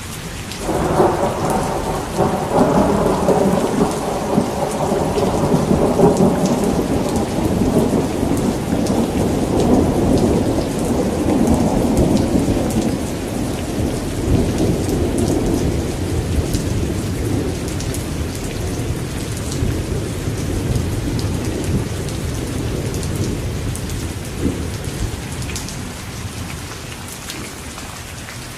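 Steady rain falling, with a long roll of thunder that breaks in about a second in and slowly rumbles away over some twenty seconds.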